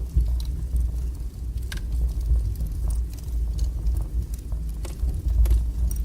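Wood fire burning strongly in a fireplace: a steady low roar of the flames with scattered sharp crackles and pops of burning wood.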